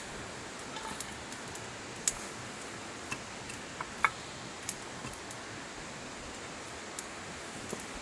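Wood campfire crackling: a steady hiss with sharp pops every second or so, the loudest about two and four seconds in.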